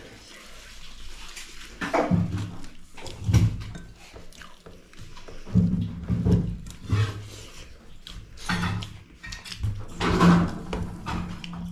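Close-miked eating sounds: chewing and lip-smacking in irregular bursts every second or so.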